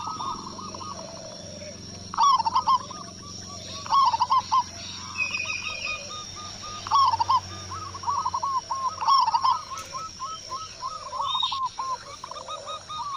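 Zebra dove (perkutut) cooing: rapid strings of short, bouncing coo notes, with louder phrases about two, four, seven and nine seconds in.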